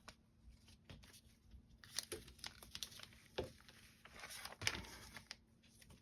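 Paper foundation pieces rustling and crinkling as they are handled, with several sharp crackles and taps, densest between about two and five seconds in.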